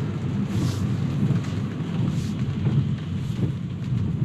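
Steady low rumble of road and tyre noise inside an electric car's cabin, driving on a wet road in the rain. Brief hissing swishes rise over it about every one to one and a half seconds.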